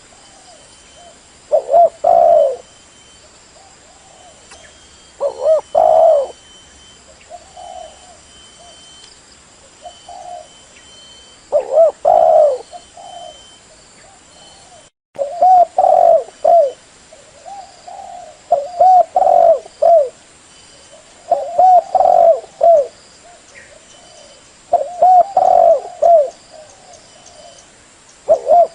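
Spotted dove cooing: a loud coo phrase every two to four seconds, with softer coos in between. The sound drops out for an instant about halfway.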